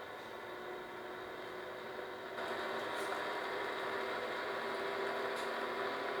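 An engine or machine running steadily, getting louder about two and a half seconds in.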